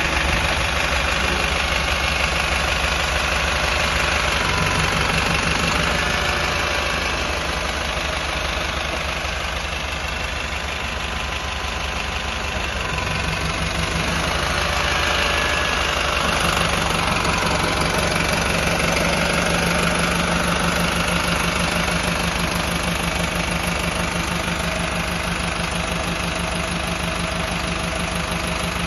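Volvo hybrid Euro 6 engine idling steadily, its low note shifting slightly a few times.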